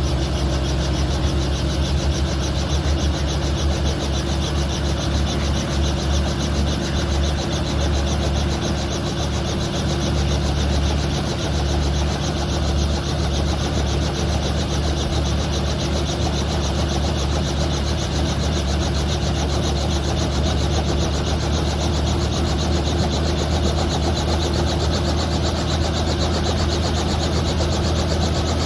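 Helicopter running steadily: a loud, even drone with a fast, regular pulsing from the rotor.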